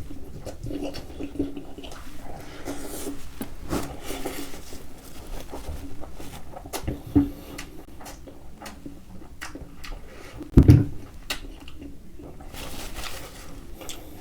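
Close-miked eating of sauce-covered turkey wings: wet chewing, lip smacks and small clicks. There is a sharp knock about halfway through and a louder low thump a few seconds later.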